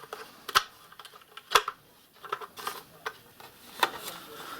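Small metal parts clinking and knocking against a plastic saw blade guard as a coach bolt, tubing spacer and handle are fitted by hand: a few separate sharp clicks, the loudest about a second and a half in.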